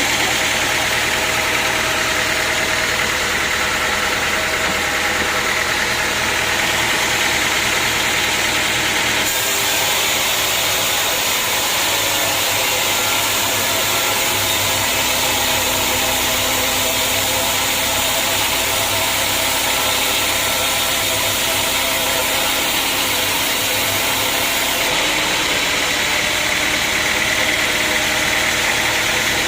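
Sawmill machinery running steadily: a motor hum under a loud hiss. It changes abruptly about nine seconds in and again near the end.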